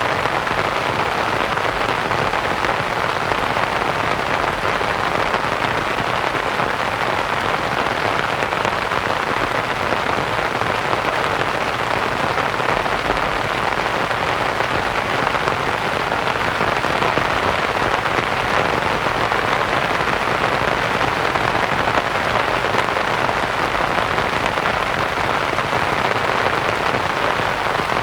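Steady rain falling on a canvas tent, a continuous even patter blended with soft white noise.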